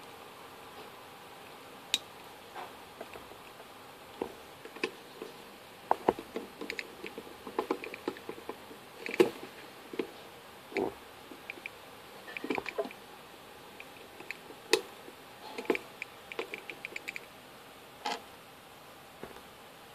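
Small hard clicks and taps of plastic LEGO pieces being handled, coming irregularly, with a few quick runs of rattling ticks.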